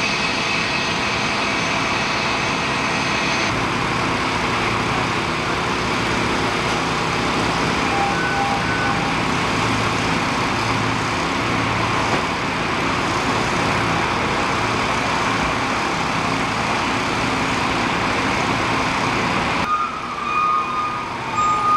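Heavy vehicle engine running steadily with loud, even mechanical noise, typical of fire apparatus idling at a crash scene. Near the end the noise drops and a steady electronic beeping comes in.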